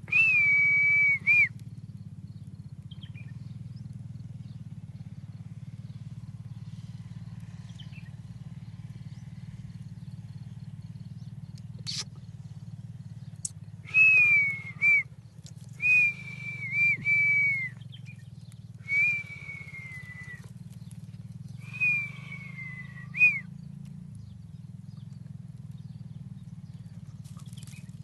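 Pet parrot whistling: five clear, pure whistled notes, each about a second long, level or gently falling with a quick upturn at the end, one at the start and four more close together in the second half. A steady low hum runs underneath throughout.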